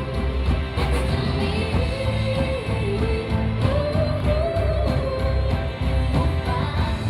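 A band playing a song with a lead singer's melody over bass and a steady beat, heard live through the room.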